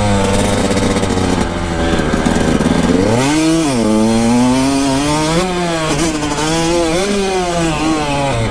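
Kawasaki KX125 two-stroke dirt bike engine being ridden: a steady drone, then about three seconds in the revs climb and drop, followed by several shorter rises and falls as the throttle is worked.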